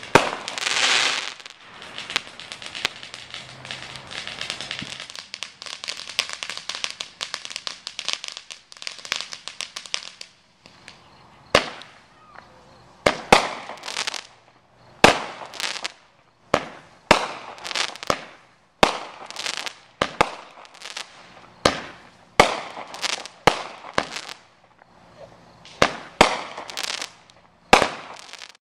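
Aerial fireworks going off. The first ten seconds or so are dense crackling, then comes a run of sharp bangs about once a second, each followed by a brief crackle.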